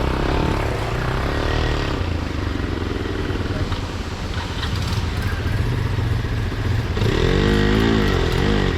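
Motorcycle engine running steadily under a continuous low rumble. Near the end its pitch rises and falls several times.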